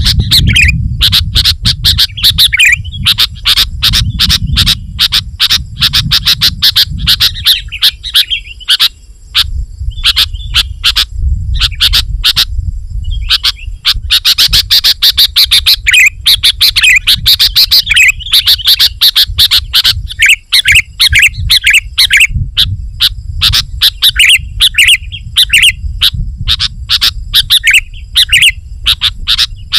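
Sooty-headed bulbul (kutilang) singing loudly and almost without pause in rapid, bubbly chattering phrases, the 'gacor' song used as a lure for wild bulbuls. The recording crackles with many clicks and has a low rumble underneath, and the song breaks off briefly near the middle.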